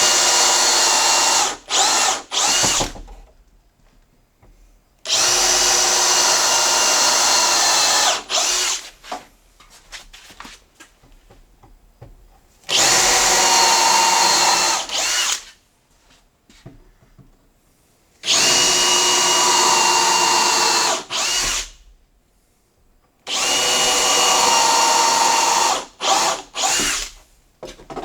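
Electric drill boring pilot holes for screws in wood: about five runs of two to three seconds each at steady speed, each followed by a few short quick bursts.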